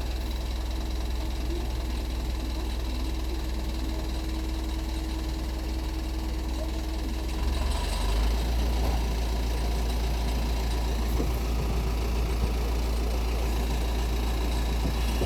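Diesel engine of a Toyota-built road-rail dual-mode vehicle (DMV) idling steadily; about halfway through the engine's low rumble grows louder and stays up.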